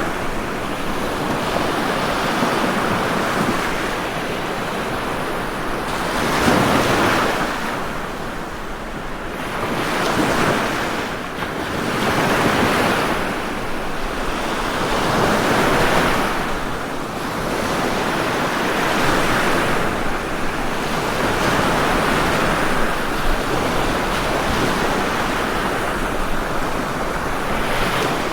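Ocean surf: waves washing in as a continuous rushing noise that swells and falls back every few seconds.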